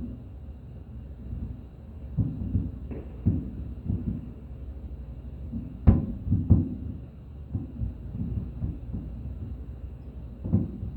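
Fireworks shells bursting: several low booms at uneven intervals over a low rumble, the sharpest and loudest about six seconds in.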